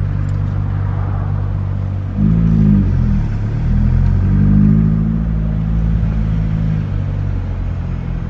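Car engine heard from inside the cabin, running steadily, then revving up about two seconds in, easing off briefly, and revving up again as the car accelerates.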